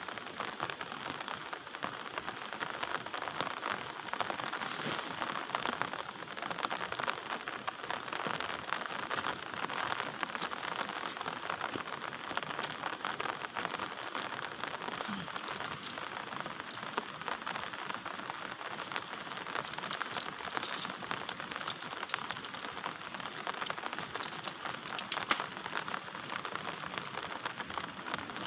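Heavy rain falling steadily, with a run of sharper, louder drop impacts tapping in over the last third.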